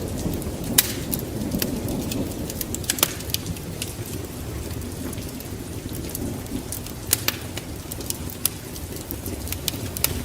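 Steady rain with a low rumbling undertone, mixed with the sharp crackles and pops of a wood fire, about one or two a second.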